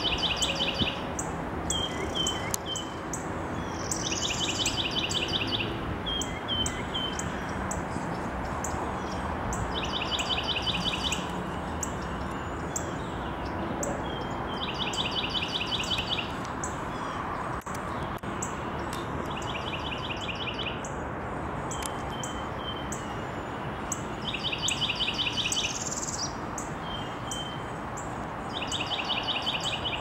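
A songbird repeating one song phrase about seven times, every four to five seconds: two or three short high notes, then a fast trill lasting about a second. A higher sliding whistle sounds twice.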